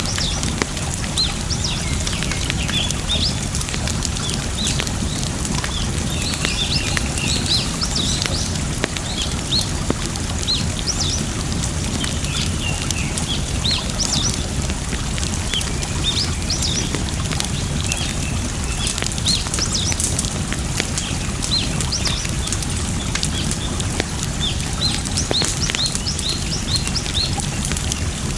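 Wood fire crackling with scattered sharp pops over a steady rush of running water, while small birds chirp repeatedly throughout.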